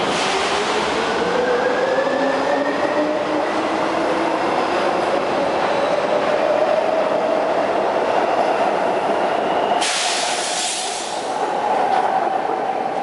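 São Paulo Metro Frota K subway train accelerating away from a station, its traction motors whining in several tones that rise steadily in pitch, over wheel and track noise. About ten seconds in, a sudden high hiss lasts about a second.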